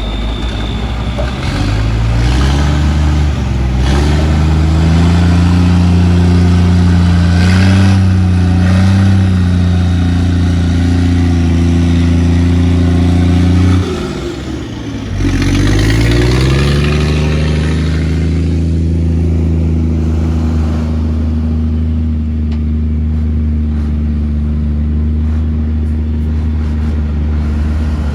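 Heavy diesel engine of construction machinery revving up, then running hard under steady load. About fourteen seconds in the revs drop sharply and climb back up, after which it runs steadily again.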